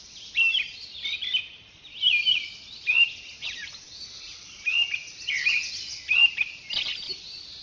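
Birds chirping and calling, a busy run of short, high chirps and whistles, some sliding in pitch, coming every half second or so.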